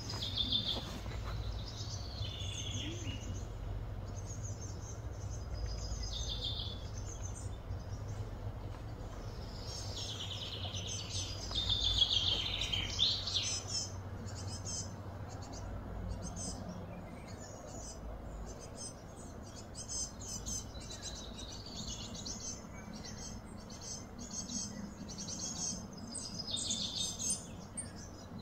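Birds chirping and calling again and again, loudest a little under halfway through, over a steady low background rumble of outdoor noise.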